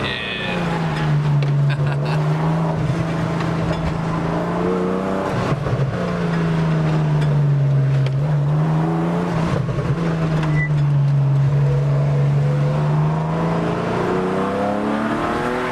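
Car engine running hard on a winding road, its revs sinking and climbing back up about three times as the driver lifts off and accelerates again.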